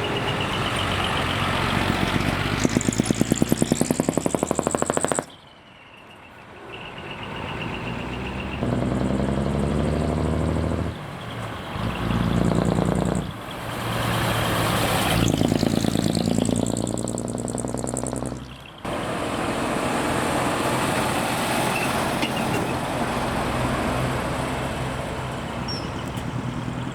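Heavy diesel trucks with modified, open exhausts running and revving as they pull away, the engine note rising and falling in several surges. The sound breaks off abruptly twice.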